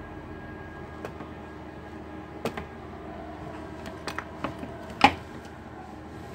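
Scattered small clicks and taps of laptop plastic parts being handled on a workbench, the loudest knock about five seconds in, over a steady background hum.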